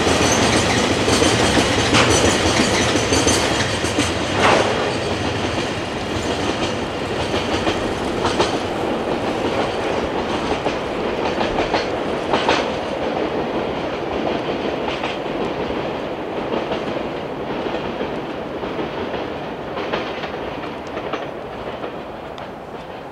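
A freight train of tank wagons rolling on curved track, its wheels clacking over the rail joints with scattered sharp knocks, fading steadily as it moves away.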